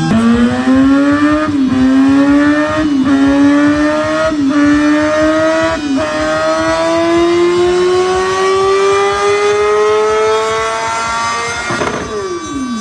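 Sportbike engine pulled hard on a dyno, revs climbing through the gears with four quick shifts about a second and a half apart. After that comes one long rise to high revs in top gear. Near the end the throttle closes and the revs fall away.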